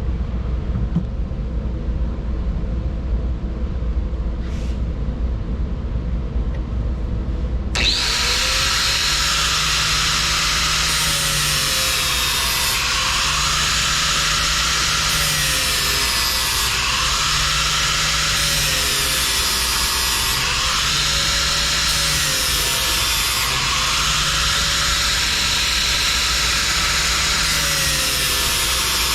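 A low steady rumble, then about eight seconds in a grinder starts grinding the steel edge of a lawn mower blade, loud and continuous, swelling and changing every two to three seconds as each sharpening stroke is drawn across the blade.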